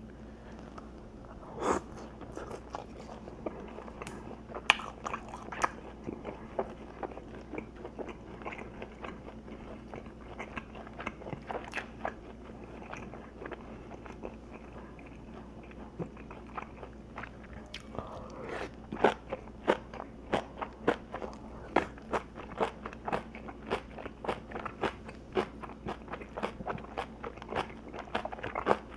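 Close-miked chewing of crunchy food, with sharp crunches scattered at first and then a steady run of bites at about two a second from the middle on.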